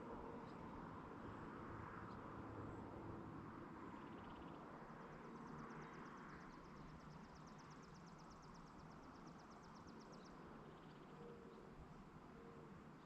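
Faint evening countryside ambience. From about five seconds in, a high, rapid ticking trill runs for about five seconds, then stops.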